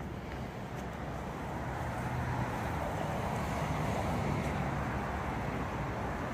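A car engine running at low revs nearby over steady outdoor background noise, growing a little louder through the middle and then easing off.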